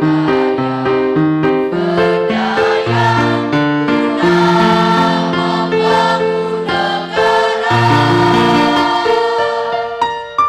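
School choir singing a march with keyboard accompaniment, the voices joining the keyboard about two seconds in and closing on a long held note that fades near the end.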